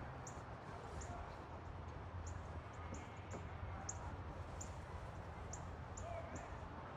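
A small bird calling: short high chirps, roughly one or two a second, over a low steady rumble.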